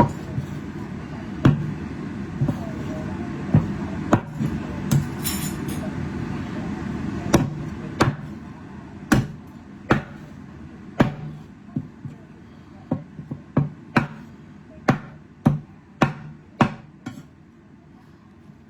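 A cleaver chopping chicken drumsticks into pieces, one sharp chop at a time at an uneven pace, coming faster in the second half.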